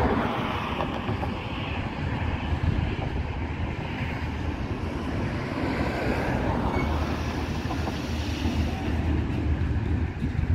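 Container train in a rail terminal running past with a steady, continuous low rumble.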